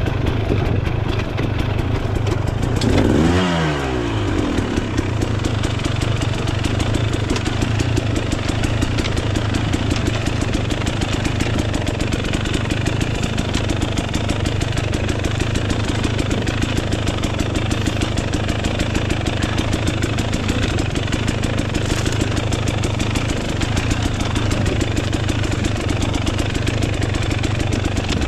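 Dirt bike engine running steadily at a low, even speed, like an idle. About three seconds in there is one louder burst whose pitch falls quickly back down to the steady note.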